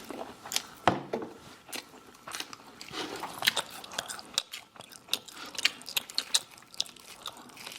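Crispy fried chicken being bitten into and chewed: irregular crunches and chewing sounds.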